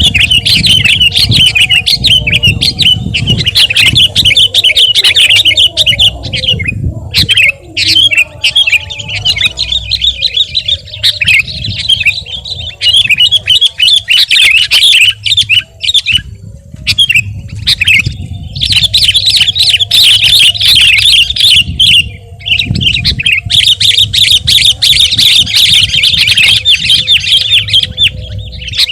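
Sooty-headed bulbul (kutilang) in full song, giving long bouts of rapid, dense chattering broken by short pauses, over a steady low hum.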